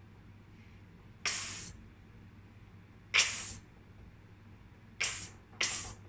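A woman repeatedly saying the phonics sound for the letter x, a short hissed "ks" with no vowel, four times: about a second in, about three seconds in, and twice close together near the end.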